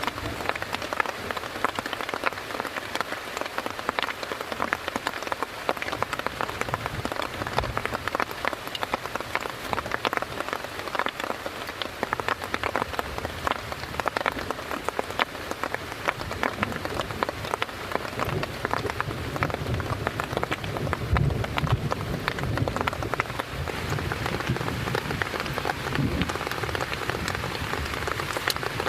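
Heavy rain falling, a dense, steady patter of drops hitting a surface.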